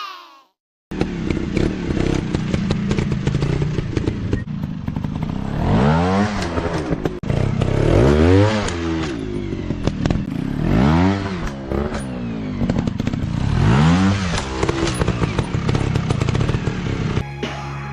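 Dirt bike engines running off-road, the pitch climbing and dropping about four times as they rev up and back off, with clattering knocks throughout. A steady low hum takes over just before the end.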